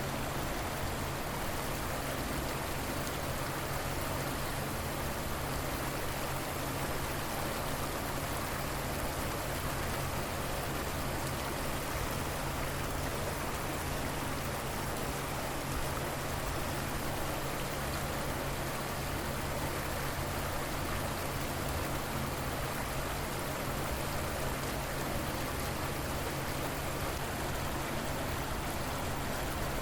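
River water flowing steadily, a constant rushing and splashing without change.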